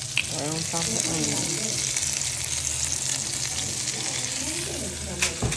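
Food sizzling and frying in a pan, a steady crackling hiss, with faint voices in the background. A sharp click sounds just after the start and another near the end.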